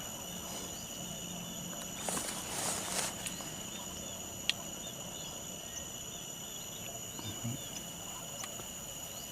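A steady outdoor chorus of insects such as crickets, made of several constant high-pitched tones. There is a brief rustle about two to three seconds in and a single faint click near the middle.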